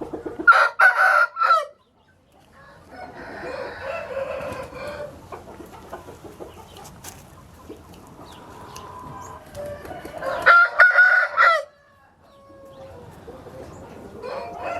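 Gamefowl roosters crowing twice, a short loud crow about half a second in and another about ten and a half seconds in, with chickens clucking between.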